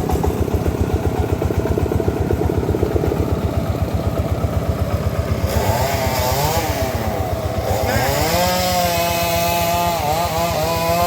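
Engine of a homemade circular sawmill running with a steady rapid thudding. From about halfway, a whine that rises and falls in pitch joins it as the blade cuts into a teak log.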